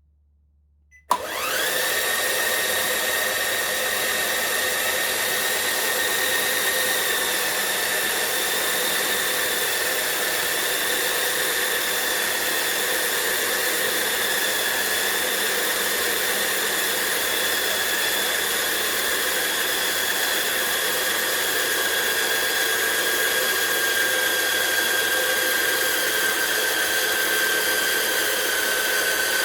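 CaDA M motor, a small Power Functions-compatible electric motor, switching on with a click about a second in and running with a steady high whine, its pitch rising quickly as it spins up, then sinking slowly and steadily.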